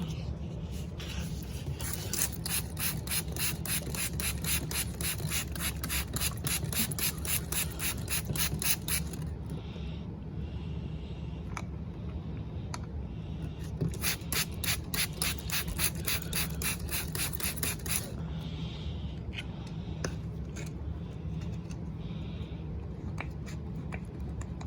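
A cloth scrubbing a model car with quick back-and-forth strokes, about four a second, in two spells separated by a pause of a few seconds.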